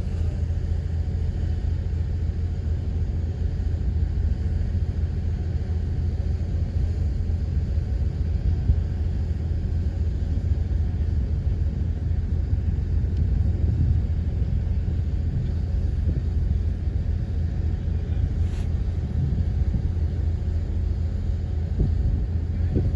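Bulldozer diesel engine running, a steady low rumble.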